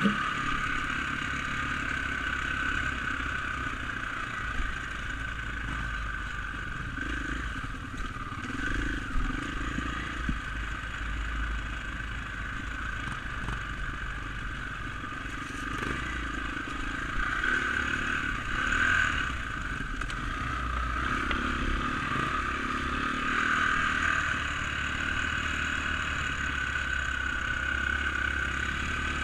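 Dirt bike engine running steadily while being ridden on a trail, with a few brief clattering knocks from the bike over rough ground.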